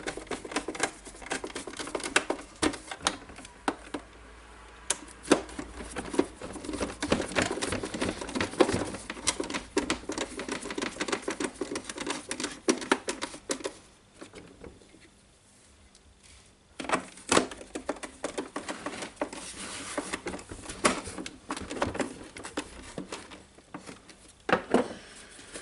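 Irregular clicks, taps and light rattles of screws being driven and plastic parts being handled as the plastic case of a DeWalt DC011 site radio is screwed back together, with a brief lull a little past halfway.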